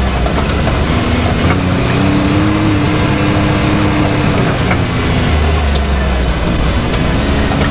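Can-Am Maverick X3 side-by-side's turbocharged three-cylinder engine running on the trail under changing throttle. Its pitch rises about a second and a half in, holds, then drops back about five seconds in, over steady rumble and noise from the moving machine, with a few light ticks and knocks.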